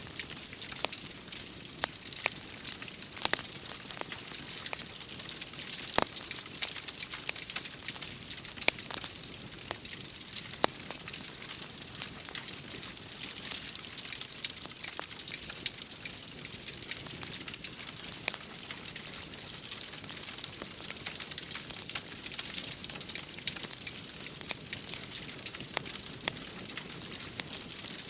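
Wood fire crackling in a fireplace, with frequent irregular sharp pops over a steady hiss of rain.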